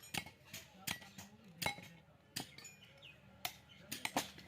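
Sharp metallic clinks and taps, about eight at irregular intervals, each ringing briefly: metal tools striking the steel shell and parts of a refrigerator compressor as it is opened for scrap.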